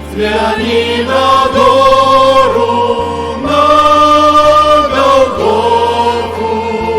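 Christian hymn music: choir-like voices and accompaniment holding long sustained notes over a steady stepping bass line.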